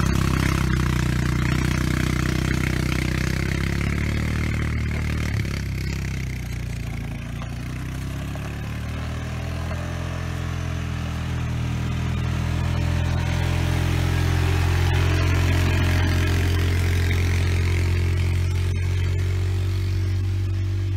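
ATV engine running under load while towing a land planer. The engine note sags about a third of the way in, then builds back up, with a faint clatter of the implement over the dirt.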